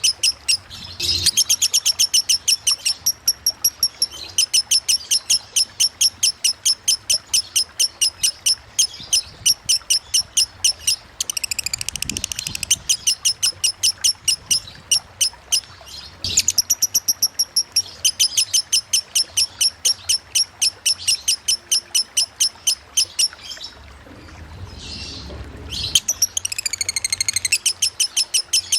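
Lovebird singing long runs of fast, evenly repeated high chirps: the rapid 'ngetik' (typing) song prized in a 'konslet' lovebird. The runs are broken by short pauses a few times.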